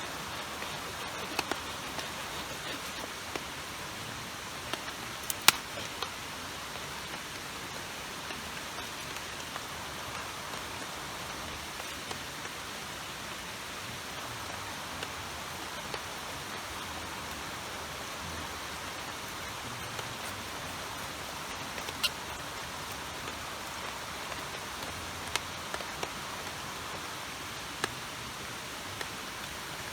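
Steady hiss of rain and rushing river water, with a few scattered sharp clicks, the loudest about five seconds in and another about 22 seconds in.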